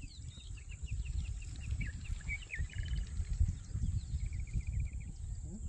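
Several wild birds chirping and singing, with a quick trill near the middle and a fast run of chirps about four seconds in, over a low, irregular rumble.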